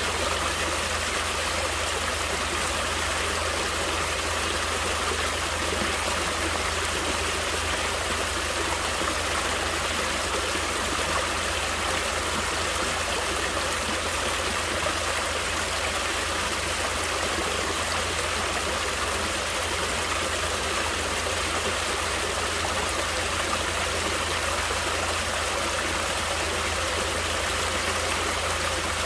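Stream water flowing steadily, an even rushing and trickling sound.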